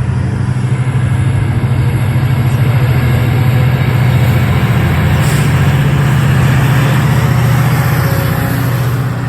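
MARC MP36 diesel locomotive engine running under power close by as the train moves past: a loud, steady low drone with a fast, even pulsing.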